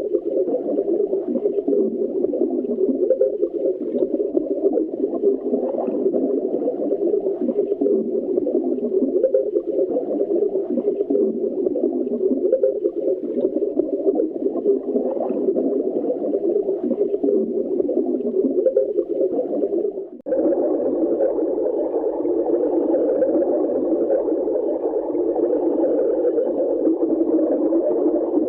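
Hanna-Barbera cartoon sound effect: a continuous, low churning noise with no clear pitch. It cuts out briefly about twenty seconds in, then a second, slightly brighter take of the same kind follows.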